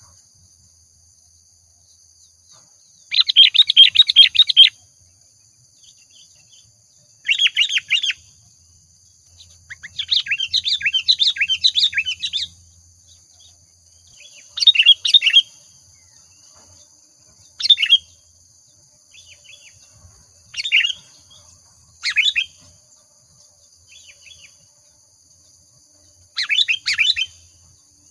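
Sooty-headed bulbul (kutilang) singing in short bursts of quick, chirpy phrases, about eight bursts parted by pauses of a second or more. The longest, busiest phrase comes near the middle.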